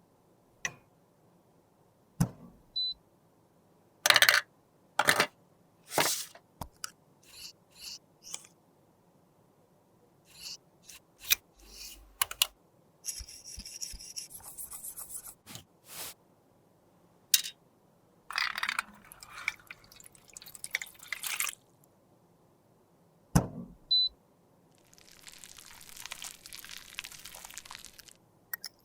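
Close-up handling sounds from repairing a lipstick: scattered sharp taps and clicks of tools and containers, with several stretches of scraping or rubbing a few seconds long.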